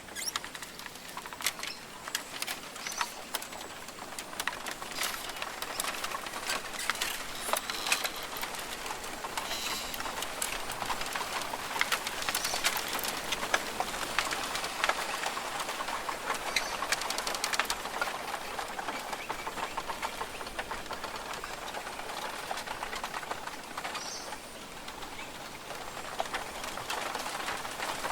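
Rainforest ambience: birds calling over a steady, dense hiss, with many sharp clicks and ticks scattered throughout.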